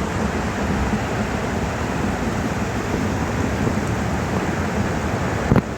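Mountain stream rushing: a steady noise of fast-flowing water, with one brief knock near the end.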